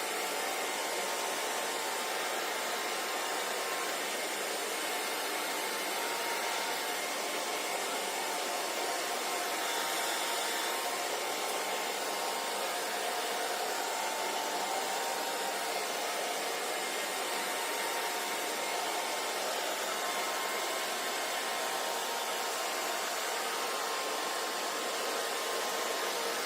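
Hair dryer running steadily: an even rush of blown air over a faint motor whine.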